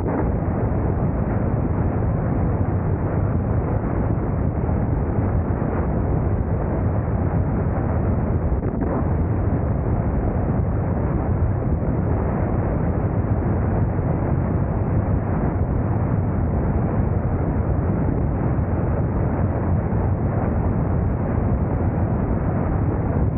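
Motorcycle riding at a steady speed: heavy wind buffeting on the microphone over the low drone of the engine and road noise, unchanging throughout.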